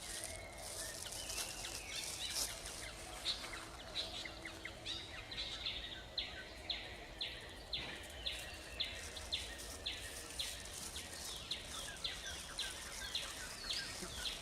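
Forest ambience with birds calling. From about five seconds in, one bird repeats a short chirp that drops in pitch, about twice a second, among scattered other chirps.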